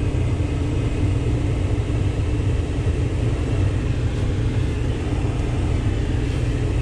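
A truck running: a steady low rumble with a faint constant hum over it, unchanged throughout.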